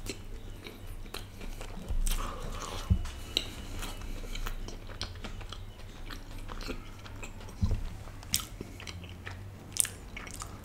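Close-miked chewing and biting of a triple-patty burger, with scattered sharp mouth clicks.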